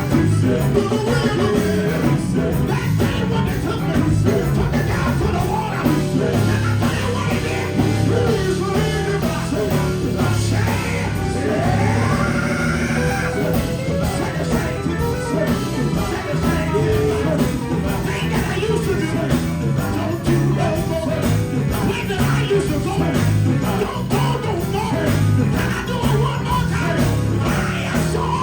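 Live gospel band music with a steady beat and electric guitar, with singing over it.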